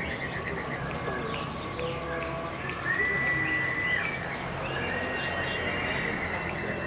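Several caged songbirds singing at once, an overlapping mix of chirps, trills and short whistles, with one clear held whistle about three seconds in.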